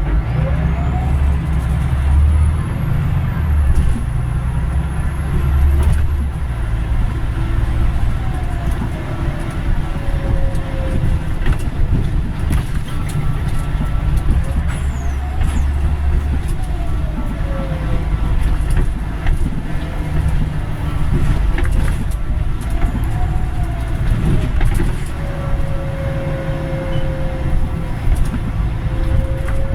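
Scania Omnidekka double-decker bus driving, with a loud, steady low rumble. The engine and transmission whine rises and falls in pitch four or five times as it pulls away and shifts gear, with scattered short knocks and rattles.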